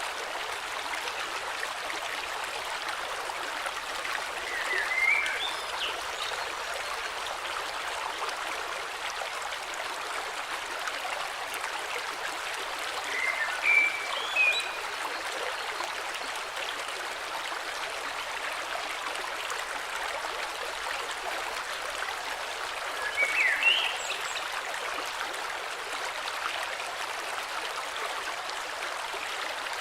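Flowing river running steadily, with a bird chirping short phrases three times, about 5, 14 and 23 seconds in.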